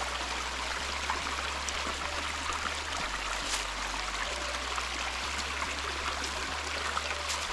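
Creek swollen with spring runoff, a steady rush of flowing water.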